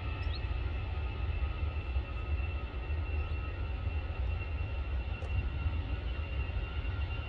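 Jet airliner engines heard from afar: a steady low rumble with a thin, high, steady whine.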